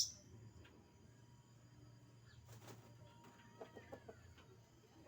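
A sharp click at the start, then faint bird calls: a short run of about five quick clucking notes about three and a half seconds in, over a low background hum.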